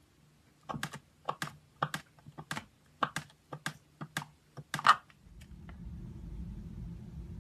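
Slime being pressed and squeezed, giving a quick run of sharp clicking pops, many in close pairs, for about four seconds. A steady low rumble comes in near the end.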